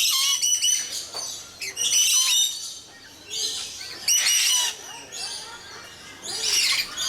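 Birds calling in bursts of shrill, high chirps, about four bursts spread across the few seconds with quieter gaps between.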